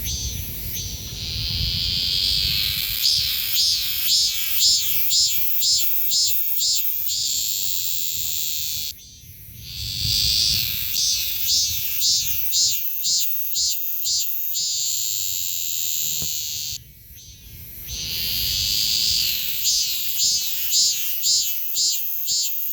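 A cicada singing at very close range in repeated phrases. Each phrase is a steady buzz that breaks into a run of pulses, about two a second, and then goes back to a steady buzz. The song stops briefly twice and starts again.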